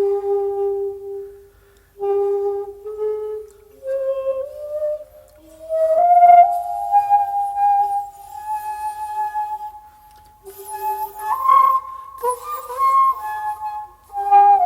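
Solo shakuhachi, the Japanese end-blown bamboo flute, playing long held notes in slow phrases broken by short pauses, the line climbing from low notes to higher ones. About eleven seconds in, the tone turns breathy, with strong blowing noise for a couple of seconds.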